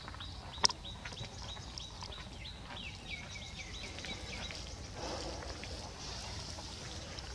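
A bird chirping, a quick even run of short falling notes, about four a second, that fades out about halfway through. A single sharp click sounds under a second in.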